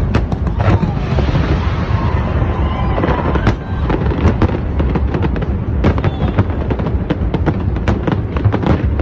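Fireworks display: a dense, continuous run of sharp bangs and crackles from shells bursting, over a low rumble.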